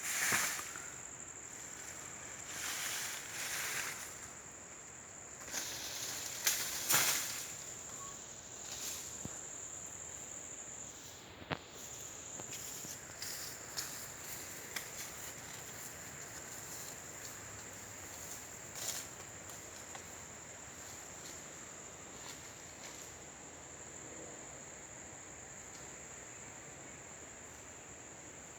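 Insects chirring in a steady, high-pitched chorus, with intermittent rustles that are loudest in the first seven seconds and a sharp click about eleven and a half seconds in.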